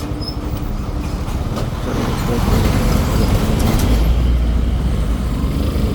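Road traffic and vehicle engines heard while riding, with a heavy low rumble of wind on the microphone that grows louder about two seconds in.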